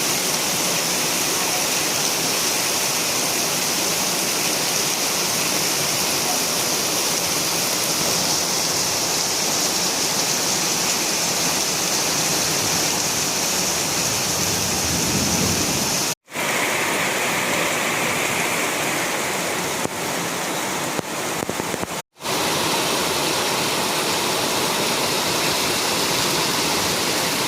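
Heavy rain falling with a steady hiss, cut off abruptly twice and picking up again at once, with a few sharp taps of drops shortly before the second cut.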